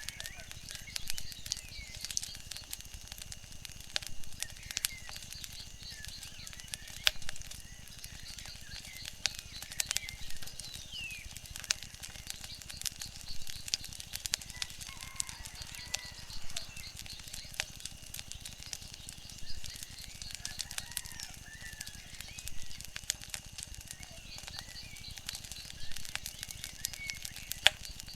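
Wood fire crackling, with frequent sharp pops scattered irregularly, over a low steady background, with short bird chirps now and then.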